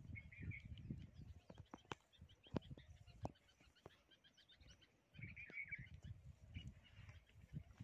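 Faint small birds chirping and twittering, with a thicker cluster of calls about five seconds in, over intermittent low rumbling and a few light clicks.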